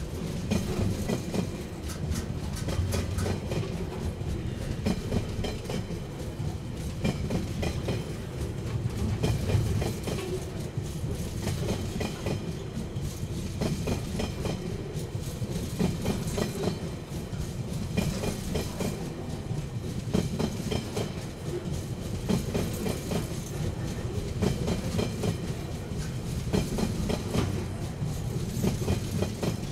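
Freight train's container wagons rolling past: a steady low rumble with the clickety-clack of steel wheels over the rail joints.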